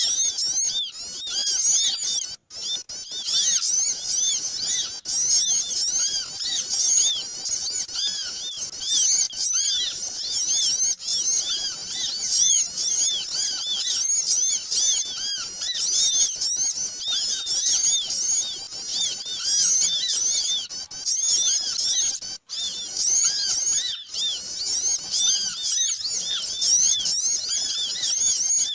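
A dense, noisy chorus of many small birds twittering: fast, overlapping, high-pitched chirps that never let up. It is a bird-lure call for attracting small birds.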